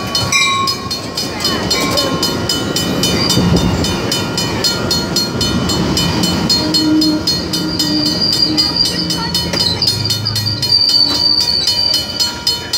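Train rolling past close by: rapid, even clicking of the wheels over the rail joints, about seven a second, over a low rumble, with a thin high wheel squeal that grows stronger in the second half.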